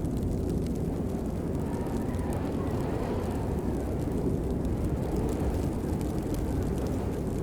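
Steady heavy rain: a deep, even rushing noise with faint scattered drop ticks.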